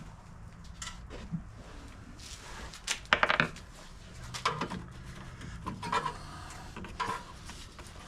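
Hand tools and snowblower parts being handled during disassembly: scattered clinks, clicks and knocks, with a quick cluster of them about three seconds in.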